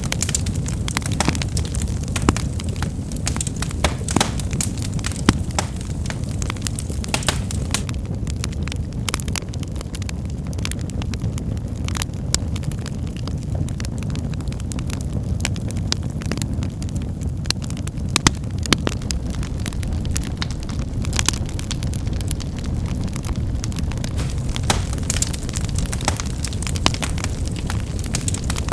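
Wood fire burning with a steady low rumble and frequent irregular crackles and sharp pops of snapping firewood.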